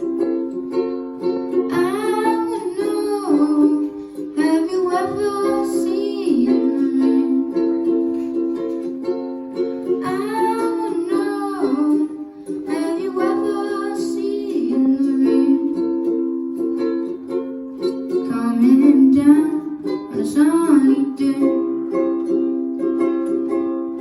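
Ukulele strummed steadily with a voice singing over it in phrases of a few seconds, with short breaks between the sung lines.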